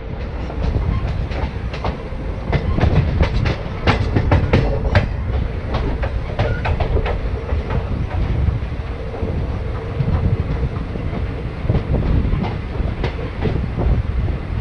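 Passenger train running, heard from on board: a steady low rumble from the coach, with rapid clicks of the wheels over rail joints and points, thickest in the first half.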